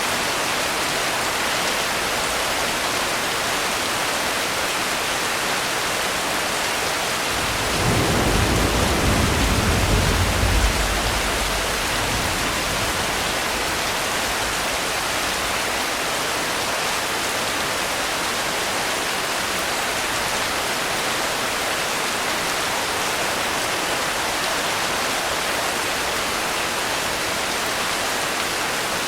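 Steady rain, with a low roll of thunder about seven seconds in that swells for around four seconds and fades.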